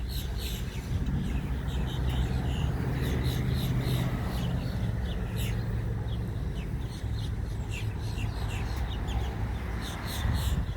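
Birds chirping in many short, quick calls over the steady low hum of an idling vehicle engine.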